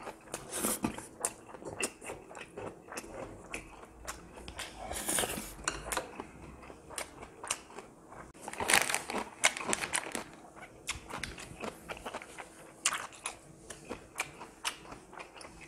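Close-miked mouth sounds of a person chewing food: wet clicks and small crunches come several times a second. Two longer, louder noisy stretches stand out about five and nine seconds in.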